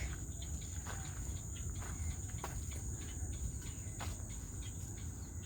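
Insects droning steadily at one high pitch in the wetland, with a few faint clicks scattered through.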